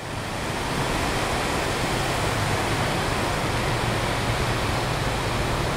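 Low rumble of an approaching freight train's diesel locomotives in the distance under a steady rush of wind, fading in over the first second.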